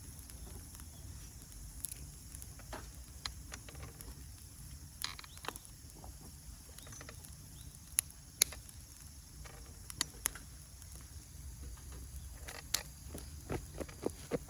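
Wood campfire just catching, crackling with sharp, irregular pops over a low steady rumble; the firewood is a little damp. Two louder pops come close together about eight seconds in.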